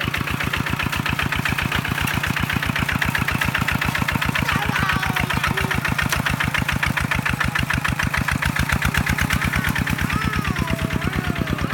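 Kubota hand tractor's diesel engine running steadily with an even, rapid firing beat.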